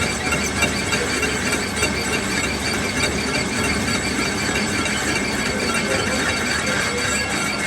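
Steel rim being turned on a lathe: a steady, unbroken metallic squeal from the cutting tool against the metal.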